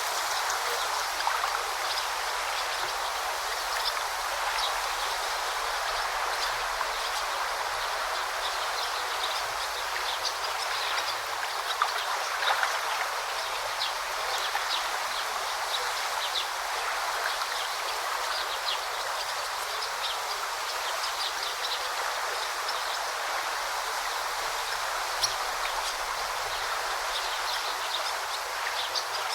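Forest river flowing steadily, a continuous rush of water, with short high bird calls now and then.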